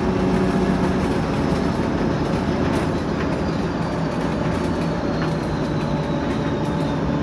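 TEP70 diesel locomotive under way, its 16-cylinder diesel and running gear making a steady rumble. A faint high whistle, slowly falling in pitch, comes from the turbocharger.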